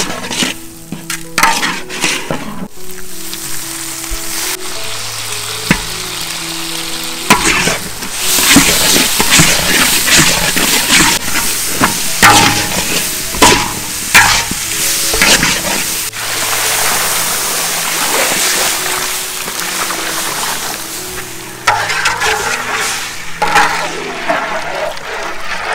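Food sizzling in a hot pan as it is stir-fried, with repeated scrapes and knocks of the stirring utensil. The sizzle swells louder about a third of the way in and eases again near the end. Soft background music plays underneath.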